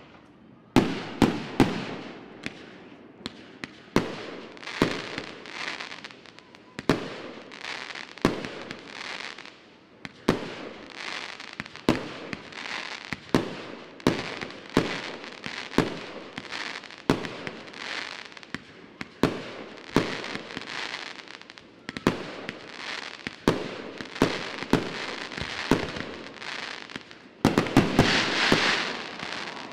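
Fireworks display: aerial shells bursting in a steady run of sharp bangs, one every second or so, each trailing off into noise. Near the end comes a louder, denser barrage of bangs lasting about two seconds.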